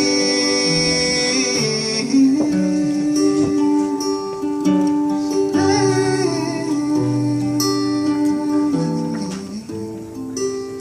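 Acoustic guitar playing an instrumental break in a live folk song, with wordless singing in places.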